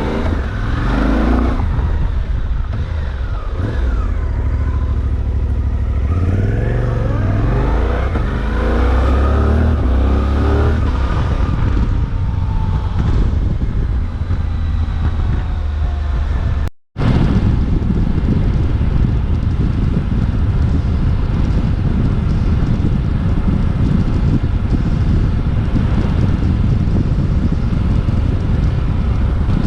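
Suzuki V-Strom 800DE's parallel-twin engine heard from on the bike, revving up and down through the gears in the first half. After a short dropout about two-thirds of the way in, it holds a steady cruise under a heavy rush of wind on the microphone.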